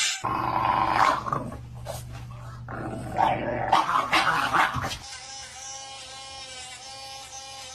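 A dog growling and whining, loud and irregular for about five seconds, then a quieter steady hum.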